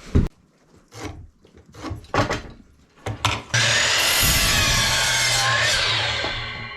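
A few wooden knocks as lumber is handled, then, about halfway in, a power saw starts suddenly and runs loud and steady through a board for about three seconds before winding down near the end.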